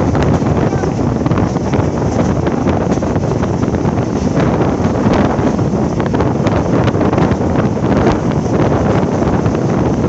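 Steady rush of wind on the microphone held out of a fast-moving passenger coach's window, mixed with the train's running noise of wheels on the rails.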